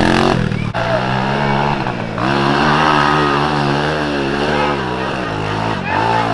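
Dirt bike engine running under changing throttle, its pitch rising and falling as the revs go up and down.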